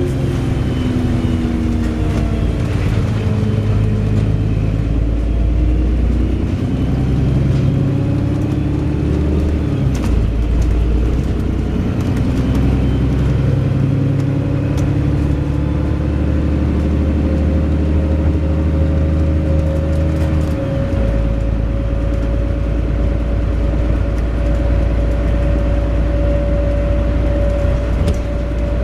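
Wright Pulsar Gemini 2 double-decker bus engine and gearbox running as the bus drives, the engine pitch climbing and dropping back at gear changes about a third and again two-thirds of the way in, then holding steady. A few sharp ticks sound over it.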